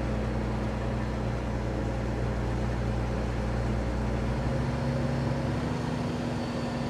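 Kenworth W900 semi truck's diesel engine running steadily under way, a low even drone whose pitch shifts about two-thirds of the way through as engine speed changes.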